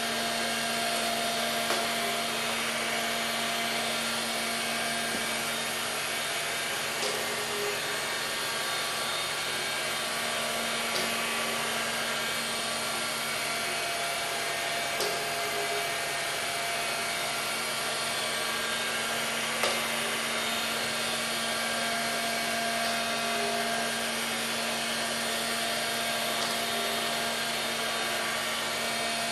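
Robotic vacuum cleaner running: a steady whirring of its suction motor and brushes with a low hum, broken by a few light clicks or knocks.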